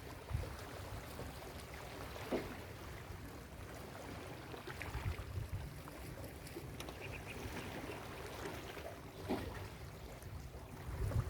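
Ocean surf washing on a beach, a steady wash with low wind rumble on the microphone and a few brief sharp sounds.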